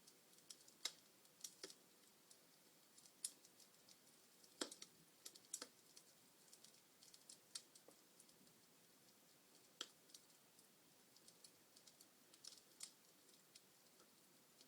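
Wood fire in a fireplace crackling: irregular sharp snaps and pops from the burning logs, a few louder ones standing out, over a faint steady hiss.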